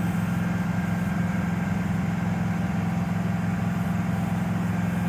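Dodge Dakota pickup engine held steady at about 2,500 RPM, running evenly while a water mist is drawn into its intake to steam-clean the catalytic converters.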